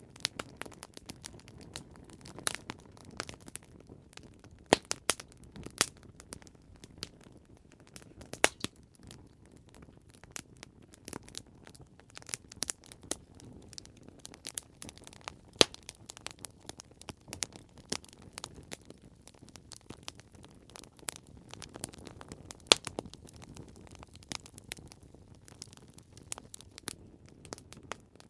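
Campfire crackling: irregular sharp pops and snaps of burning wood over a low steady hiss of the flames.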